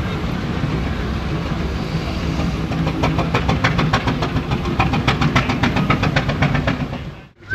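An engine running steadily, joined about three seconds in by a rapid, regular clicking clatter several times a second; the sound cuts off abruptly just before the end.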